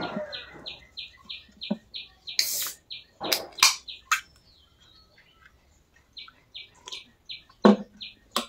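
A small bird chirping an even series of short high notes, about three a second, in two runs with a pause between. Mixed in are a few sharp clicks and a brief hiss from handling things at the table.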